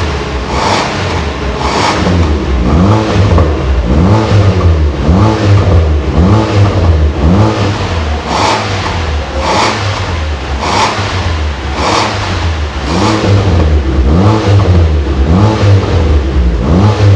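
Proton Preve Turbo's turbocharged four-cylinder engine, fitted with a full stainless-steel exhaust system, revved again and again in quick throttle blips, the pitch rising and falling with each blip.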